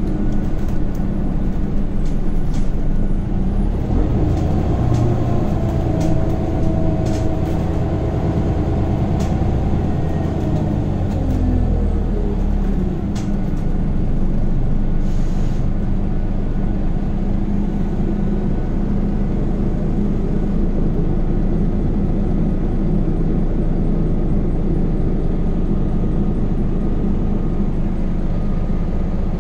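Scania Omnicity city bus heard from inside, its engine and ZF 6HP Ecomat automatic gearbox running. The pitch glides up and down over the first dozen seconds as the bus changes speed, then holds steady. There are a few light rattles, and a short hiss about 15 seconds in.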